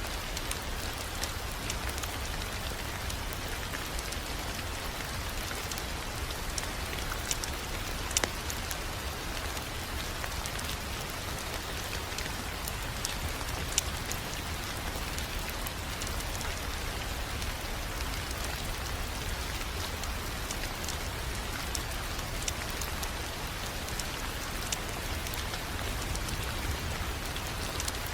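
Wood fire crackling: a steady hiss with scattered sharp snaps and pops over a low, steady rumble.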